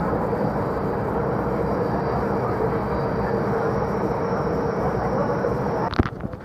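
A steady mechanical drone, like an engine or machine running, that cuts off abruptly just before the end.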